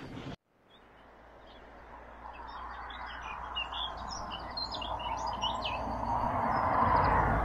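Small birds chirping and twittering in quick, scattered calls, over a rushing noise that grows steadily louder.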